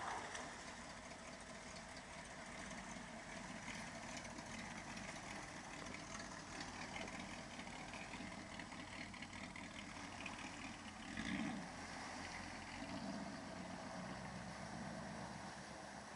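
Old 4x4 pickup truck's engine running steadily, with a brief swell in level about eleven seconds in.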